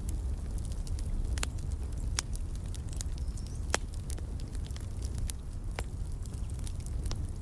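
Wood fire in a fireplace crackling, with sharp irregular pops over a steady low rumble of flames.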